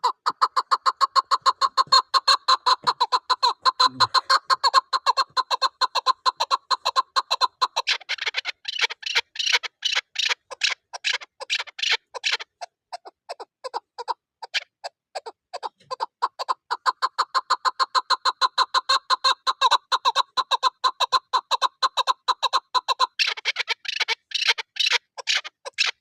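Chukar partridge calling: a long, fast run of repeated chuck notes that turns higher and harsher about 8 s in and again near the end. The calling drops to a few faint notes for a few seconds in the middle, then picks back up.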